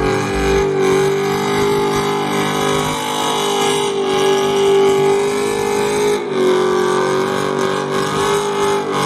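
A car engine held at high revs during a burnout, giving a loud, steady engine note that wavers slightly and dips briefly about six seconds in.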